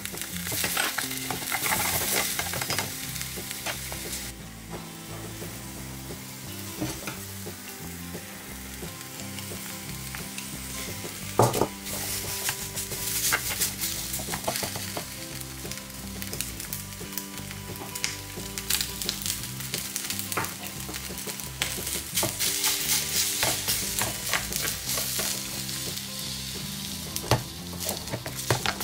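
Food sizzling in a tiny stainless-steel miniature pan over a mini burner, with chopsticks scraping and tapping against the metal as shrimp, rice and egg are stirred. A steady frying hiss under frequent sharp taps and clicks, one loud knock about eleven seconds in.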